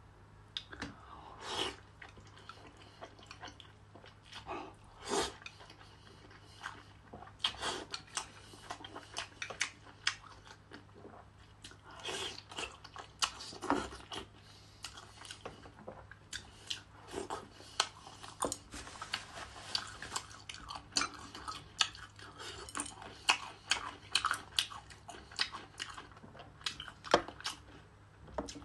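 Close-miked chewing and wet mouth smacks of someone eating saucy food, in irregular bursts, with the odd click of chopsticks against a glass bowl, over a faint steady low hum.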